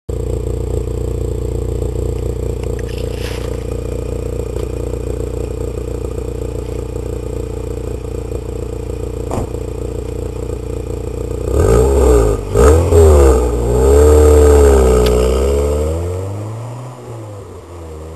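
VW Polo 6N engine heard through its Novus aftermarket rear silencer: idling steadily, then revved in a few quick blips about twelve seconds in, followed by one longer rev that is held briefly and falls back to idle.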